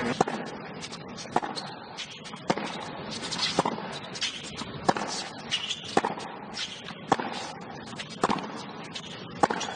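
Tennis rally: the ball struck back and forth by racquets, a sharp pop about every second, nine or so strokes, over a quiet crowd.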